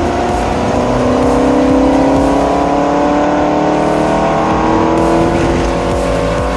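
Race car engine running hard, its pitch falling slowly and steadily over several seconds.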